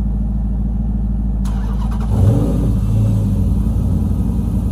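Car engine running at idle, with a brief surge about two seconds in before it settles back into a steady idle. A steady hiss comes in shortly before the surge.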